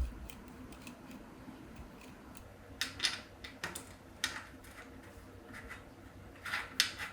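Scattered light metallic clicks and taps of small parts and hand tools being handled during engine assembly, with a few clustered about three seconds in and near the end.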